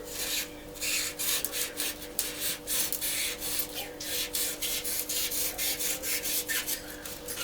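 Sharp knife cutting away excess facing material at a glued corner, in many short, irregular rasping strokes.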